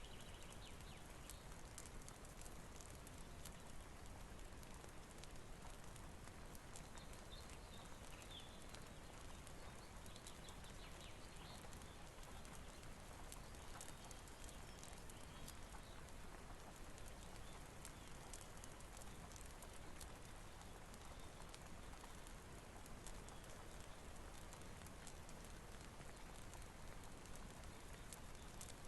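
Rain-and-fireplace ambience: a quiet, steady rain hiss with many small, sharp crackling ticks, and a few faint high chirps.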